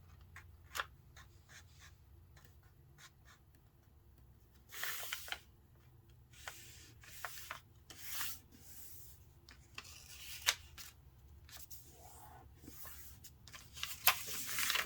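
A sheet of printer paper being folded and creased by hand: scattered rustles and rubbing swipes as the fold is pressed flat, with louder bursts about five seconds in, around eight seconds, and near the end.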